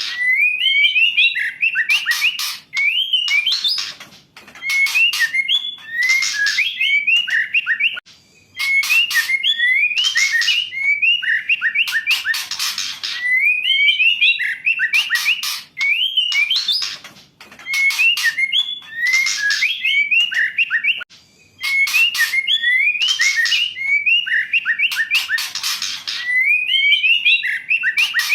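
Female white-rumped shama calling: short phrases of rising whistled notes mixed with harsh rasping notes, repeated every two to three seconds. It is a lure call meant to stir a male shama that is reluctant to sing.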